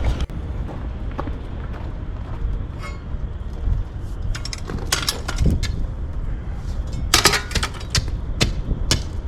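Wind buffeting the microphone, with sharp crunching strikes of a shovel digging into compacted dirt and gravel: a cluster about four to five seconds in and several more near the end.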